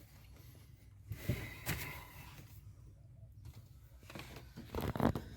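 Scattered clicks, taps and rustles of a screwdriver and hand tools being handled at a truck's accelerator pedal, a few light knocks about a second in and a busier run of louder knocks near the end.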